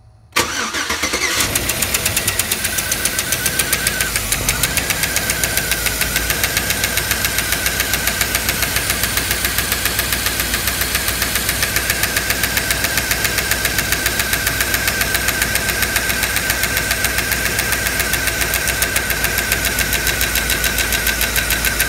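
2007 Chevy Tahoe's V8 starting about half a second in and then idling with its valve cover off, with a steady, rapid ticking from the valvetrain. The owner takes the tick for a collapsed hydraulic lifter.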